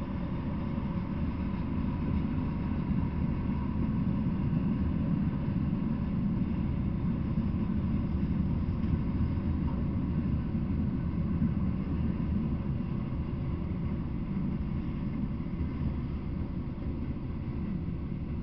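Freight train cars rolling past on the rails: a steady low rumble that slowly fades over the last few seconds as the end of the train moves away.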